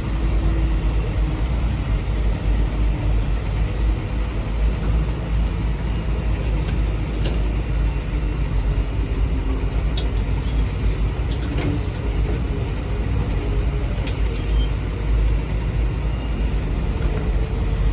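Construction machinery running steadily with a deep rumble, with a few sharp clicks or knocks scattered through.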